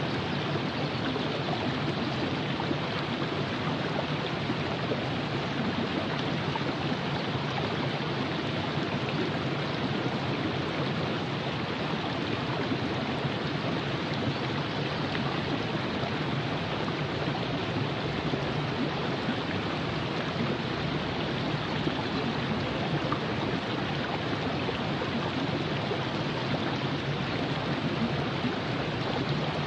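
Virgin River flowing over rocks: a steady, even rush of water.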